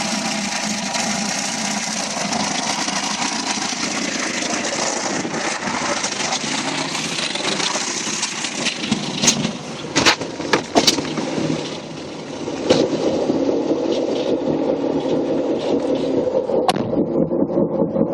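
Car driving with a knock from a worn front wheel hub bearing, heard over steady road and engine noise. A few sharp clicks come a little past halfway.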